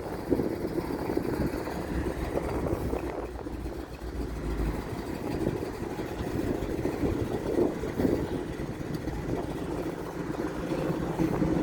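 Car engines running, a steady low engine sound.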